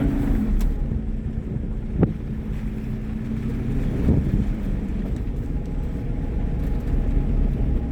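Motor vehicle engine running steadily with a low rumble, with a single sharp knock about two seconds in.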